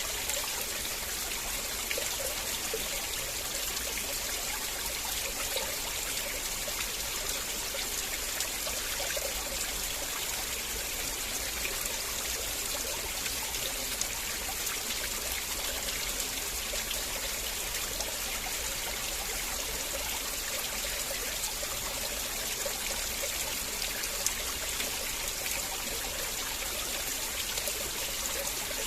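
River water flowing and trickling steadily, a continuous rushing with small splashes and drips.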